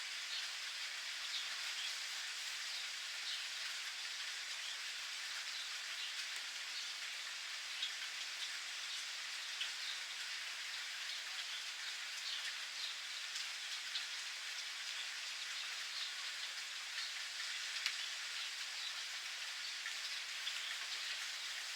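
Steady rain falling, an even hiss with scattered individual drops tapping on surfaces.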